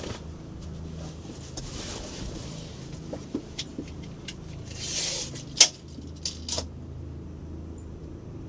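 A few sharp clicks and knocks, like small objects being handled, over a steady low hum; the loudest click comes a little past the middle.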